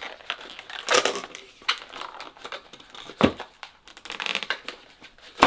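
An inflated latex modelling balloon being handled and twisted, its rubber squeaking and rubbing in irregular bursts, with a knock about three seconds in and a sharp, loud snap right at the end.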